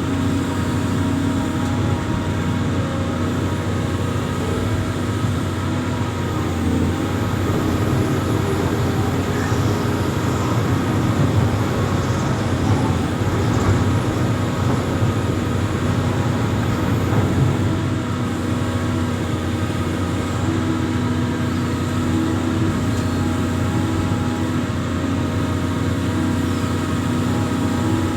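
Diesel engine of an amphibious excavator running steadily under constant throttle, a continuous even drone with a steady pitch.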